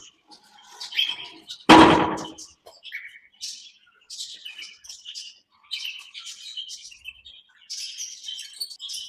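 A flock of small parrots in an aviary chirping and calling constantly in short, high notes. One loud, harsh sound stands out about two seconds in.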